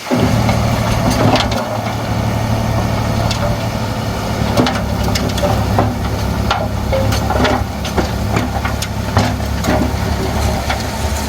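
Heavy diesel engine of a Komatsu D31P bulldozer running steadily, with many sharp knocks and clanks of the machine at work over it. The sound comes in abruptly at the start.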